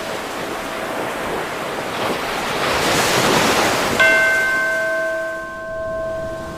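Ocean waves washing in, swelling to a crest about three seconds in and then drawing back. Right at the crest a bell is struck once and rings on, slowly fading.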